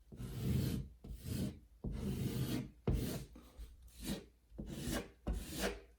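A putty knife spreading and scraping DryDex spackle over a hole in drywall, in about eight short rubbing strokes.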